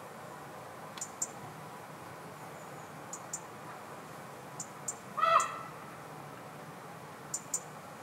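Birds at a seed feeder: short, high ticks in pairs every second or two, and about five seconds in one louder, brief, harsh call with several stacked tones.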